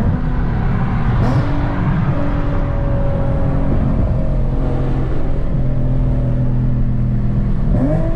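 Car engine running at steady revs, a low drone that steps up in pitch about a second in and again near the end.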